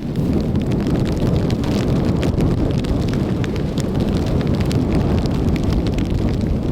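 Strong wind buffeting the microphone in a steady low rumble, with hard rain landing as a dense scatter of sharp ticks.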